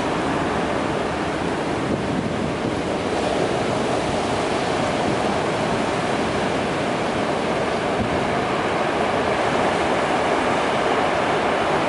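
Steady rushing roar of typhoon-force wind blowing across the microphone.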